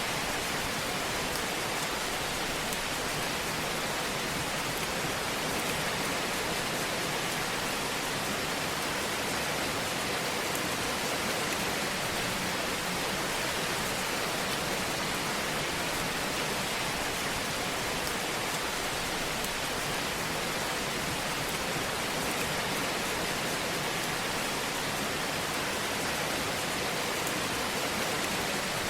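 Fire burning in a fireplace: a steady, even hiss with faint small crackles scattered through it.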